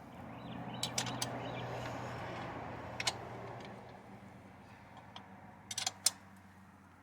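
Metal tools and pit bike parts clinking: scattered sharp clicks, a few about a second in, two about three seconds in and a quick cluster near the end, over a soft rushing noise in the first half.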